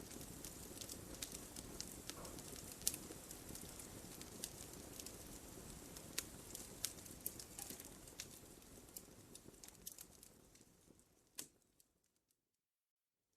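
Wood fire burning in a fireplace, with sharp, irregular crackles and pops over a soft low rush. It fades out about ten seconds in, ending in silence near the end.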